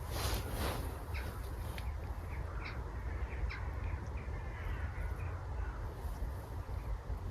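A crow cawing twice, harshly, in the first second, followed by a run of short high bird calls over a steady low rumble.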